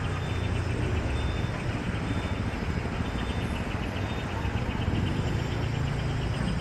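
City street traffic: vehicle engines running close by, making a steady low rumble over general road noise. A short high-pitched tone repeats about once a second.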